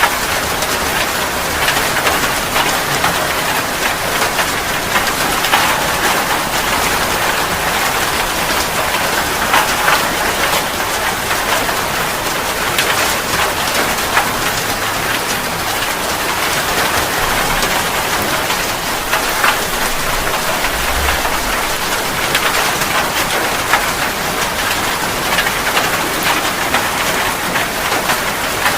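Steady rain falling, an even hiss with scattered individual drops tapping.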